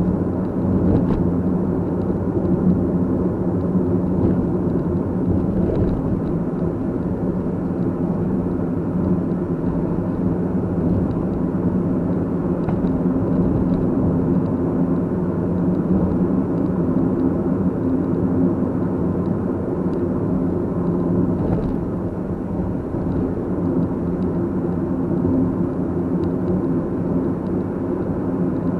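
Car driving at a steady speed: an even hum of engine and tyre noise, with a steady low drone.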